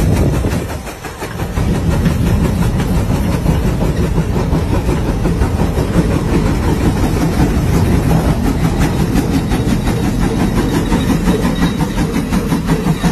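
Old tractor engine running steadily with a rapid, even firing beat, briefly dropping in level about a second in before settling back.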